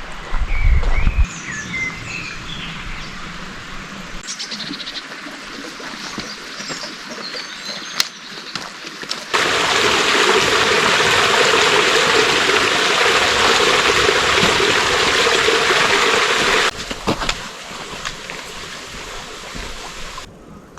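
Water of a small stream running, with birds chirping over it. About nine seconds in, a much louder, steady rush of water sets in suddenly and cuts off just as suddenly some seven seconds later.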